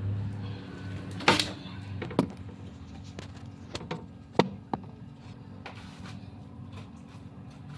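Engine parts and tools being handled at a workshop press: a few sharp knocks and clicks, the loudest about a second in and again past the halfway point, over a steady low hum.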